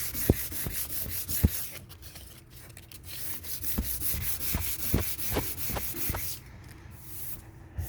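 Hand sanding on a car panel coated in high-build epoxy primer: quick back-and-forth scratchy strokes in two runs, with a few light knocks, dying away near the end.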